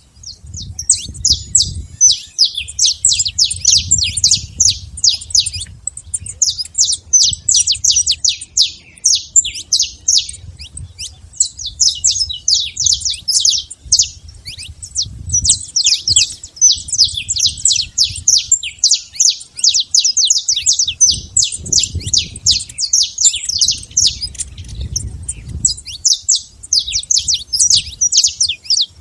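Saffron finch singing: long runs of rapid, sharp, high chirps broken by short pauses. A faint low rumble sits underneath.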